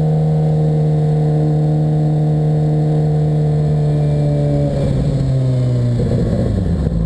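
Suzuki GSX-R600 inline-four engine running at a steady pitch while riding, then dropping in pitch and turning rougher after about four and a half seconds.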